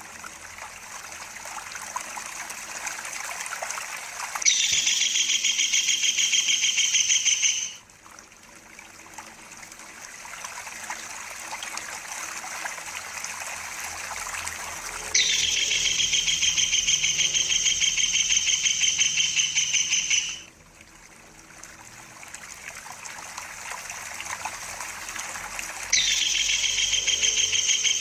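Kingfisher giving a loud, high rolling trill in three long bouts, each starting and stopping abruptly. Between the bouts a softer hiss builds up steadily.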